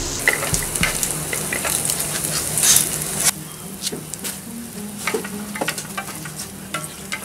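Pieces of swamp eel frying in hot oil in a pan, sizzling with scattered pops and crackles. The sizzle drops to a quieter level about three seconds in.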